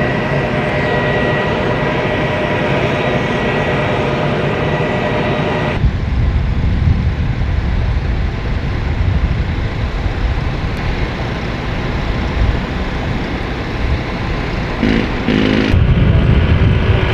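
CH-53E Super Stallion helicopter running, its three turboshaft engines whining steadily under the heavy rotor noise. About six seconds in the sound changes abruptly to a low rumble with buffeting, which grows louder near the end.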